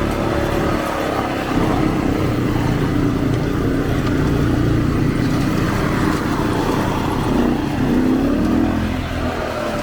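ATV (quad bike) engines running, with one revving briefly about eight seconds in.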